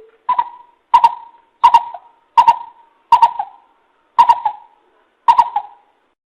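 Coucal (bìm bịp) calling: a regular series of about eight short, sharp notes, roughly one and a half a second, each starting with a click.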